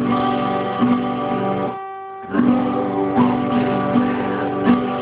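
Guitar strumming a G chord, ringing, with a brief break about two seconds in before the strumming resumes.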